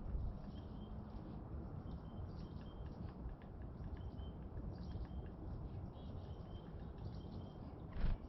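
Small songbirds calling with short, high, clear notes, repeated every second or so over a low outdoor rumble, with a soft thump near the end.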